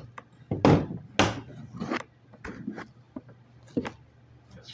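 A series of irregular knocks and clatters, like objects being handled and bumped about, about five or six in all.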